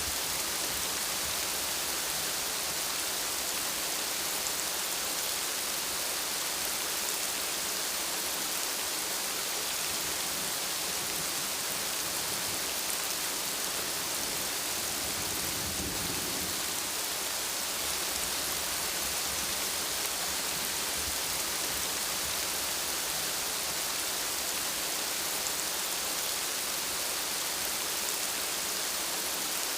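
Steady heavy rain falling, an even hiss. About halfway through, a short low rumble of thunder rises for about a second.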